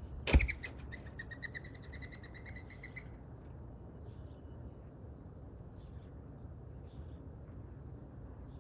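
A sharp knock, then a bird's fast chattering run of high calls for about three seconds, followed by two single short, high, down-sliding chips, one about four seconds in and one near the end.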